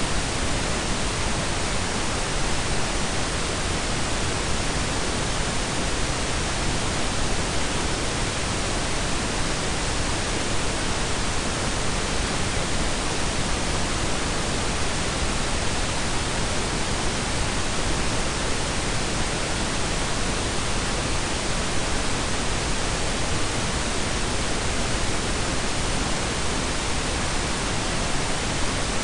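Steady synthetic pink and brown noise blended together: an even, unchanging hiss with a deep rumble underneath, cut off above about 10 kHz.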